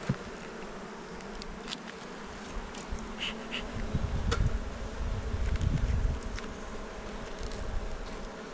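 Honeybees buzzing steadily around an opened hive during a frame inspection, with a few light clicks and a low rumble on the microphone in the middle.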